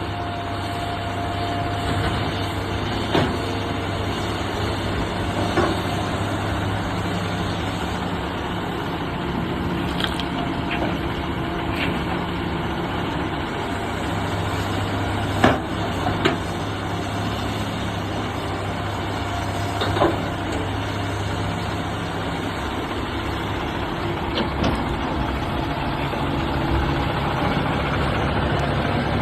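Heavy vehicle engine running steadily with a low hum, broken by several sharp knocks and bangs, the loudest about halfway through, typical of trucks being loaded.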